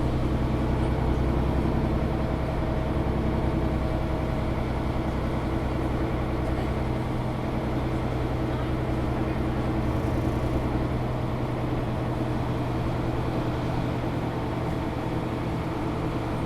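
Mercedes-Benz O530 Citaro G articulated bus heard from inside the passenger cabin while under way: a steady low diesel engine drone with road and rolling noise, easing slightly about halfway through.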